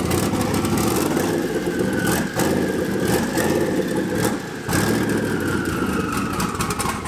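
Twin-turbo Fox-body Mustang's engine running on its first start with a snotty, choppy idle from a big cam, dipping briefly twice. A faint whine slowly falls in pitch over it in the second half.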